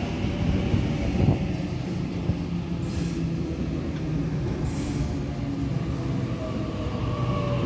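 Sydney Trains double-deck electric suburban train rolling along the platform with a steady rumble. Two short hisses come about three and five seconds in, and near the end a thin motor whine falls in pitch.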